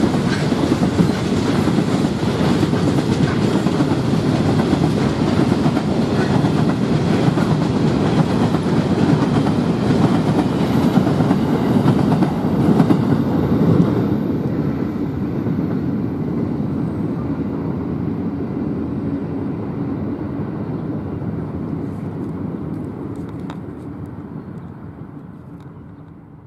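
Long freight train of covered hopper wagons rolling past on the rails. The last wagon goes by about halfway through, and the sound then fades steadily as the train moves away.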